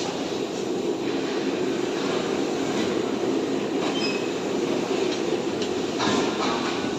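Steel bar cutting machine running with a steady mechanical rumble, with a brief sharp metallic burst about six seconds in.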